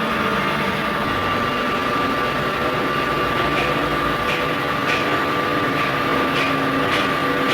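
Crankshaft grinding machine running, a steady whine over a continuous machine hum, with faint regular ticks about twice a second in the second half.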